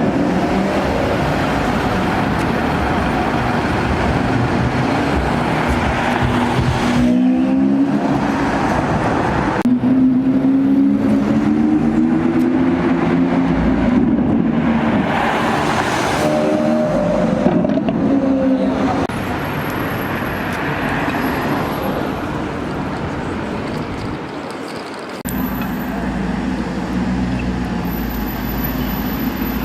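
Car engines and street traffic, with one engine rising steadily in pitch as it accelerates through the middle. The sound changes abruptly twice.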